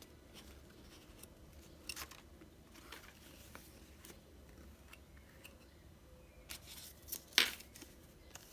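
Packaging of a pair of wireless earbuds being handled and opened: scattered small clicks and rustles of cardboard and plastic, with a sharper click about seven seconds in.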